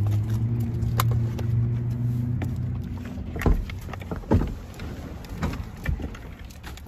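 Sprinter camper van engine running with a steady low hum that fades out about three seconds in, followed by a few sharp clicks and knocks.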